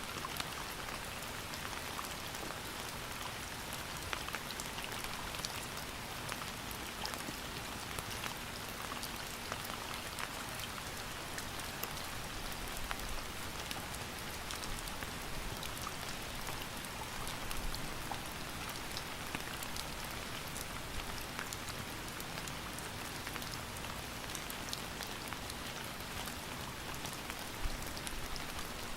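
Steady rain falling, an even hiss of rainfall with many single drops pattering close by.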